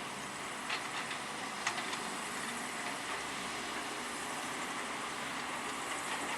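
Heavy construction machinery at work: a steady mechanical din with a few short, sharp metallic clanks.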